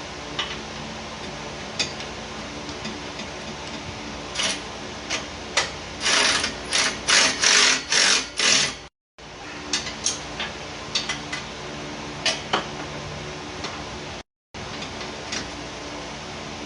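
Hand tools working on metal: scattered sharp clicks, then a run of about half a dozen loud rasping, ratchet-like strokes, over a steady low hum. The sound cuts out to silence twice, briefly.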